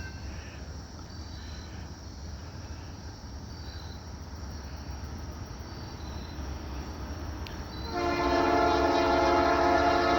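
Norfolk Southern diesel locomotives approaching with a low, steady rumble, then about eight seconds in the lead locomotive's air horn sounds loudly and holds.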